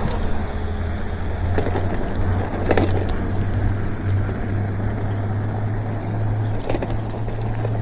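Electric bike riding on wet pavement: steady tyre and wind noise with a low, even hum underneath. A few sharp clicks come through, near 2 and 3 seconds in and again near the end.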